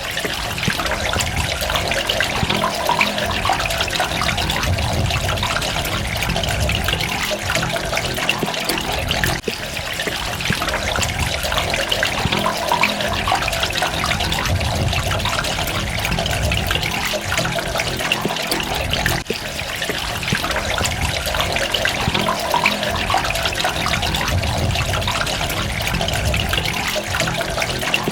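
Water running and trickling steadily, with a constant patter of small drops and splashes.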